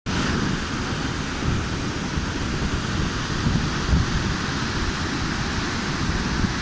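Steady rushing roar of the Howick Falls, a high waterfall plunging on the Umgeni River, with irregular low rumbling from wind buffeting the microphone.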